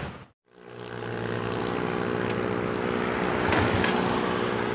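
Motorcycle engine running at a steady speed with wind and road noise; the sound cuts out for a moment near the start, then the engine note holds steady.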